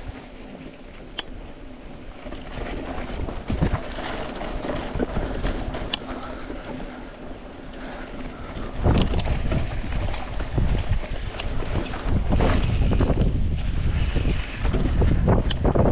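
Mountain bike rolling down a dirt and rock trail: tyre noise with a few sharp clicks and rattles, and wind buffeting the microphone. The wind rumble grows much louder about nine seconds in as speed picks up.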